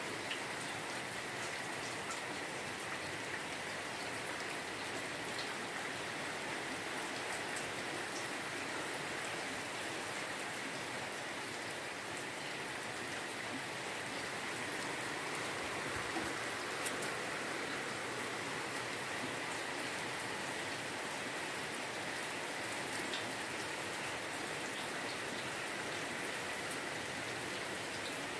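Steady heavy rain drumming on a corrugated roof and splashing onto a flooded concrete yard, with a constant hiss and scattered drop ticks.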